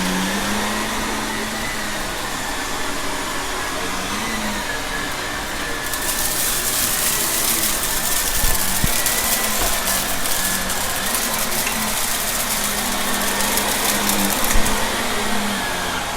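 Shark vacuum cleaner running with a steady hum and a slightly wavering whine. From about six seconds in until near the end, a louder crackly hiss joins it as debris from the mess test rattles up into the vacuum.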